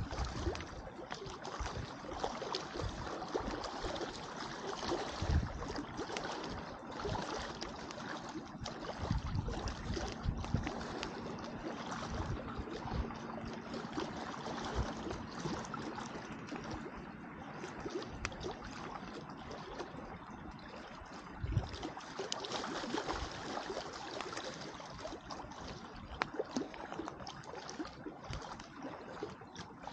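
Campfire crackling with frequent small pops, over the steady wash of lake water lapping at the shore.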